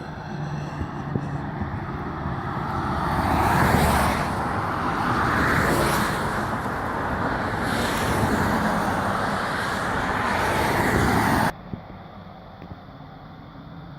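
2008 Volvo C30 T5's turbocharged five-cylinder engine through a custom 3-inch stainless exhaust. It runs with a steady low note, then grows loud about three seconds in and stays loud for several seconds before cutting off suddenly, leaving a quieter engine note.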